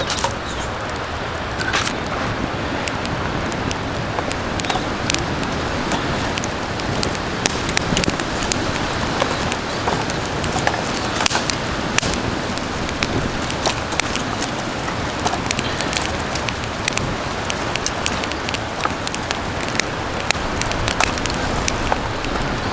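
Wood fire crackling in a fire stand: a steady hiss with many irregular sharp pops and snaps.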